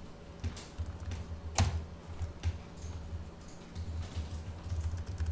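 Computer keyboard keystrokes, a few scattered clicks with a sharper one about one and a half seconds in, over a steady low hum.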